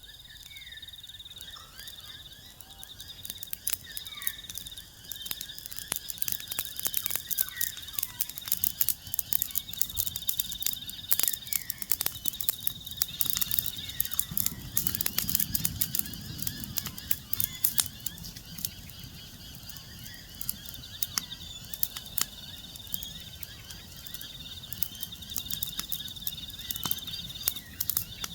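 Wood fire crackling with frequent sharp pops, densest through the middle, with a low rushing swell about halfway through. Under it run a steady high insect trill and scattered short bird chirps.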